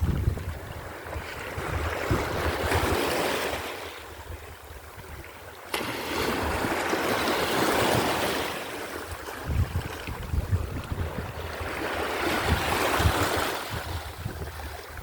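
Mediterranean Sea waves washing in and drawing back, swelling three times, one arriving with a sudden crash about six seconds in. Wind buffets the microphone between the waves.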